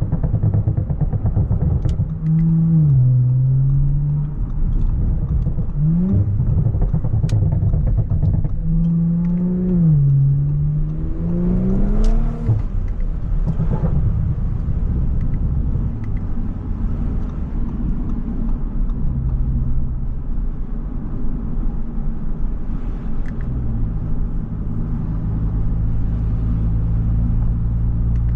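Audi S5's engine accelerating through the gears, its pitch climbing and dropping back several times in the first half, then settling into a steady cruising drone.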